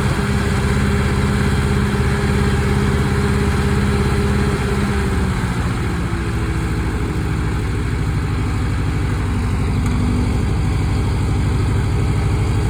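Massey Harris tractor engine running steadily, its note shifting slightly about halfway through.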